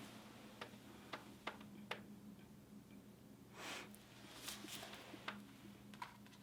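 Near silence: faint room tone with a low steady hum, a few soft clicks and a brief soft rustle about halfway through.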